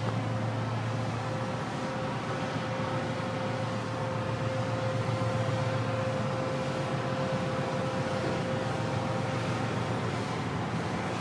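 Ship's machinery running steadily: a continuous low hum with a constant whine above it and an even rushing noise.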